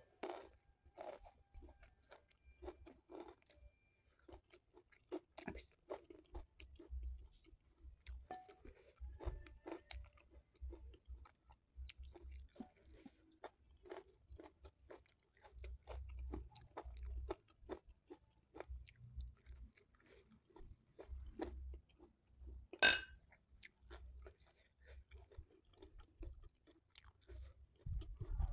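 Close-miked chewing and wet mouth clicks of a person eating steamed cassava tiwul and a fried corn fritter with chili sambal, with irregular crunches. One louder, sharper mouth sound comes about four-fifths of the way through.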